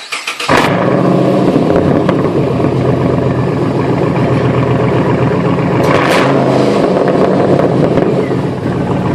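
2009 Pontiac G8 GT's 6.0-litre V8, straight-piped from the catalytic converters back with every muffler and resonator deleted, cranking briefly, catching about half a second in and then idling loud and steady.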